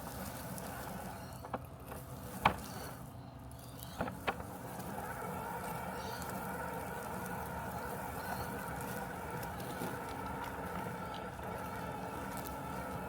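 Robotic lawn mower running with a steady hum and whine. A few sharp clicks come in the first four seconds, and the whine grows stronger about four and a half seconds in.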